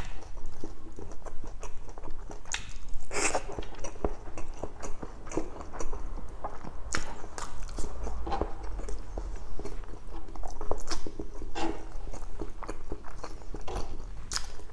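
A person eating close to the microphone: chewing and biting mouthfuls of spicy pork belly adobo in coconut sauce, with irregular short clicks and mouth sounds.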